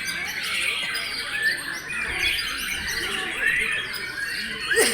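Many white-rumped shamas singing at once, a dense chorus of overlapping whistles and chirps. Near the end one sharp, loud call sweeps downward and stands out.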